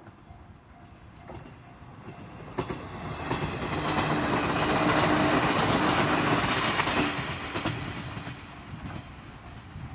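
JR West 117 series electric train passing on jointed track: its rumble, with clicks over the rail joints and a steady motor hum, builds to a peak about four to seven seconds in and fades as it moves away. A level-crossing bell rings repeatedly under it, heard most clearly at the start and the end.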